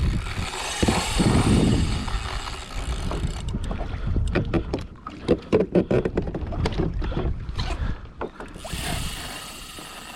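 Wind rushing on the microphone and water around a kayak, with a run of irregular knocks and clicks through the middle and another gust of hiss near the end.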